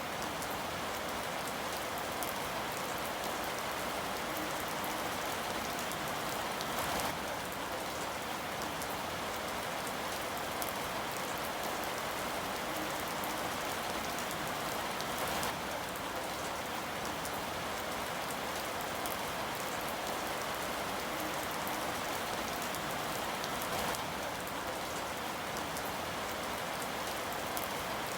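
Rain falling steadily, an even, unbroken wash of noise with no thunder.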